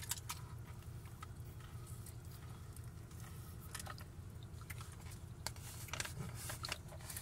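A person biting into a chicken sandwich on a soft bun and chewing it, with scattered small wet mouth clicks.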